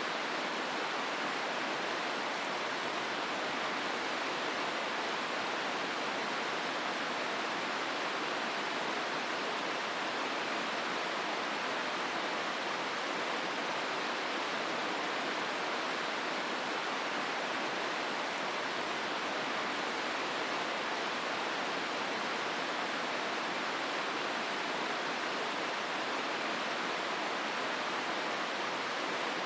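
Hozu River water rushing steadily through the gorge, an even, unbroken rush of flowing water.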